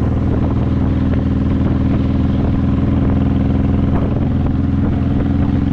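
A 2002 Honda VTX1800's 1800cc V-twin is running through Vance & Hines aftermarket pipes while the bike is under way, with a loud, steady exhaust note. The pitch rises slightly partway through.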